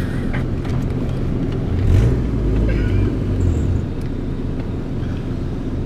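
Honda Civic's engine and road noise heard from inside the cabin, a steady low rumble that swells deeper about two seconds in.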